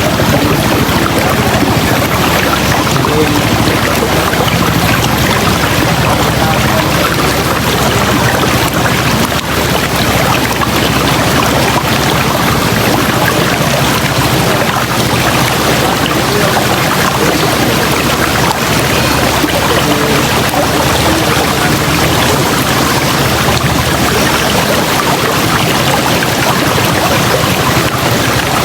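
River water flowing in a loud, steady rush.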